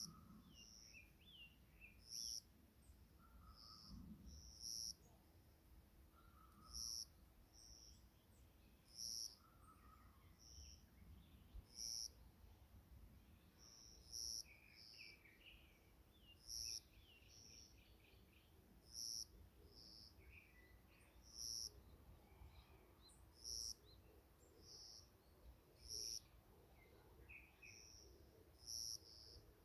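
Forest birds calling: one bird repeats a short, high, piercing call about every two and a half seconds, while others chirp and twitter more softly in between. A faint low rumble lies underneath.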